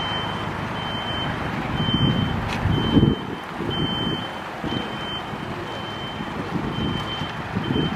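A high-pitched electronic beep repeating steadily about once a second, over a low rumble.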